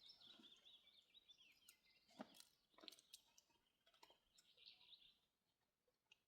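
Near silence with faint wild bird chirping, a quick run of twittering notes at the start and another short burst about halfway through, and a few faint clicks in between.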